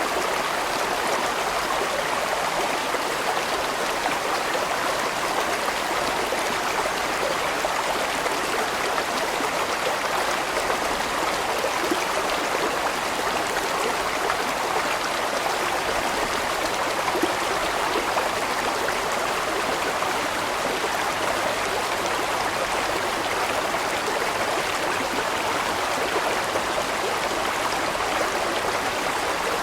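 Water rushing and gurgling steadily over rocks in a large mountain stream.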